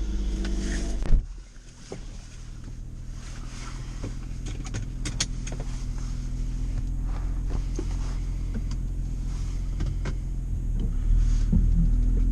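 Mercedes-AMG SLC 43's 3.0-litre twin-turbo V6 running loud for about a second, then dropping suddenly to a much quieter steady idle. A few sharp clicks and taps sound over the idle, and it grows louder again near the end.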